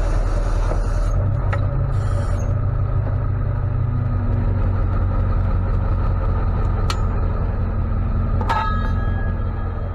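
Ford F550 tow truck's engine idling steadily, with a couple of sharp metallic clinks near the end.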